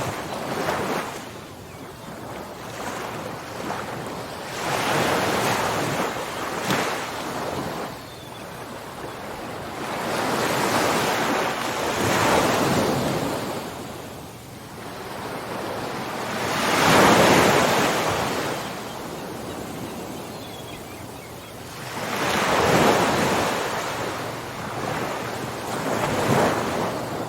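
Ocean surf: waves breaking and washing in, rising and falling in about five rushes, the loudest about two-thirds of the way through.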